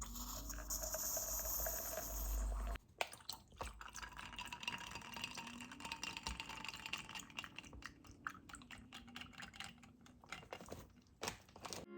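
Faint, irregular small clicks and crackles, preceded for the first few seconds by a steady low hum and hiss.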